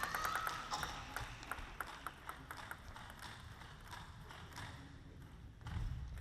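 Table tennis ball bouncing and tapping between points: a run of light, sharp clicks at uneven spacing, with a low rumble coming in near the end.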